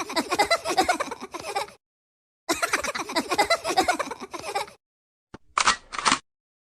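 Giggling-laughter notification tone, played twice with a short pause between. Two short separate blips follow near the end.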